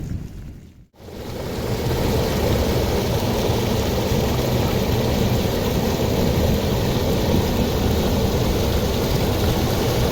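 Steady rushing noise of heavy rain, with wind buffeting the microphone, starting after a short break about a second in.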